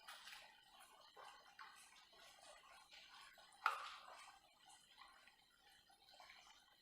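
Very faint, scattered crackling of oil in a deep fat fryer as a patty fries gently in oil that is not very hot, with one sharper click a little past halfway.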